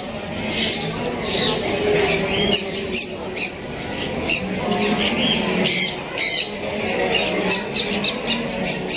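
Caged birds chirping and squawking: many short, sharp calls, several a second, coming continuously.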